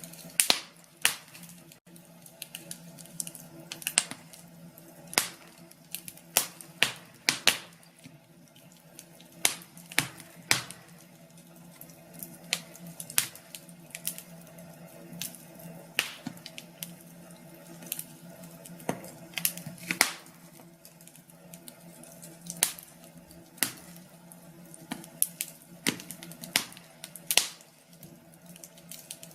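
Wood fire in a fireplace crackling, with frequent irregular sharp pops and snaps over a faint steady hum.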